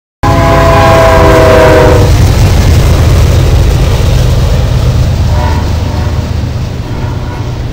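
CSX diesel freight train passing: the locomotive's multi-note air horn blows for about two seconds, its chord dropping slightly in pitch, over the heavy low rumble of the locomotives and rail cars, which slowly fades. The sound cuts in suddenly.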